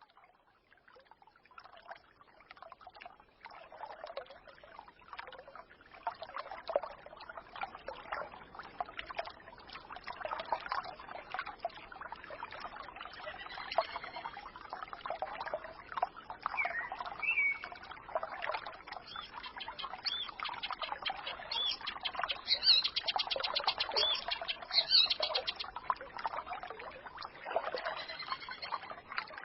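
A small forest stream babbling and trickling, fading in over the first few seconds, with songbirds chirping over it. A quick high trill comes about two-thirds of the way through.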